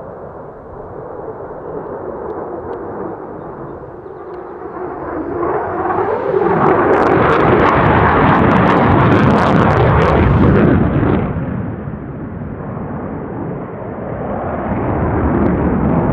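Military jet aircraft flying past at an airshow, its engine noise building to a loud peak with crackling about seven to ten seconds in, then dropping off and building again near the end.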